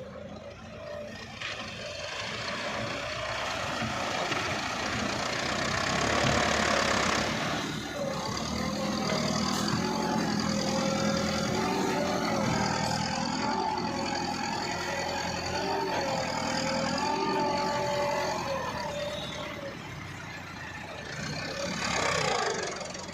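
Tractor engine running under load, its pitch wavering up and down through the middle, with a falling whine near the end.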